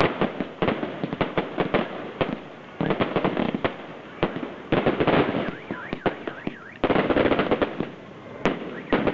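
Aerial fireworks going off: rapid crackling bangs that come in waves, each surging and thinning out again, with a few short whistles sliding in pitch partway through.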